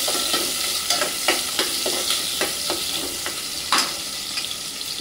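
Chopped onion and garlic sizzling in hot oil while being stirred, the spoon scraping the pan about three times a second, with one louder scrape near the end.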